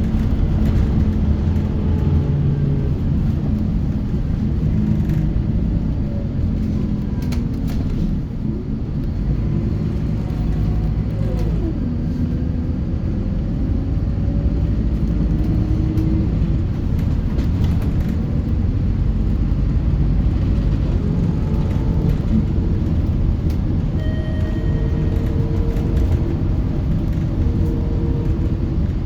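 Scania K230UB city bus heard from inside the cabin while driving: a steady low diesel engine and road rumble, with the engine note sliding up and down about halfway through as it changes speed.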